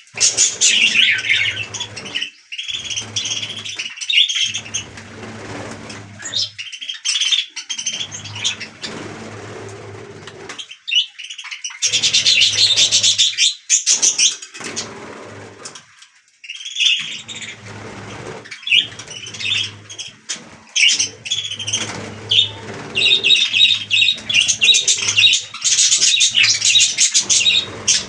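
A flock of budgerigars chattering and chirping in quick, broken bursts, with short pauses between runs.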